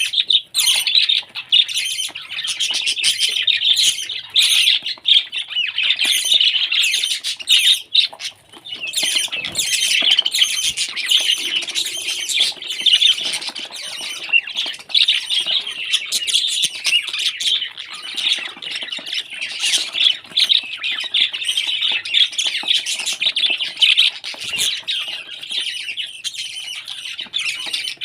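Parrots chattering and squawking continuously, a dense stream of high calls.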